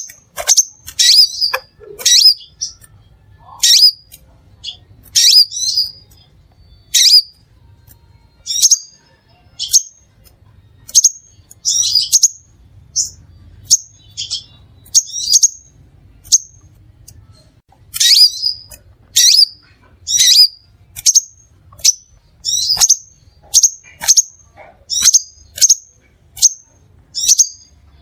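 Crimson sunbird calling: a long run of short, sharp, high chirps, about one to two a second, with brief gaps now and then.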